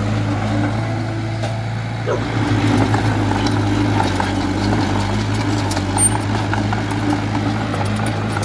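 Komatsu D20A small bulldozer's diesel engine running steadily. It gets a little louder about two seconds in, with scattered light clanks.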